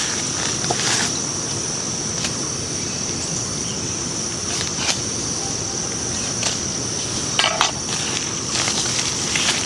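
Insects droning steadily at a high pitch over a wide hiss, with a few short clicks and knocks scattered through, a cluster of them about seven and a half seconds in.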